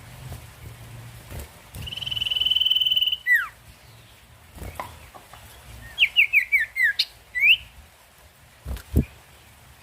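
Sirtu bird singing: a rapid, buzzy trill held for over a second that ends in a falling slur, then a quick run of short descending whistles closing on one rising note. A dull low thump near the end.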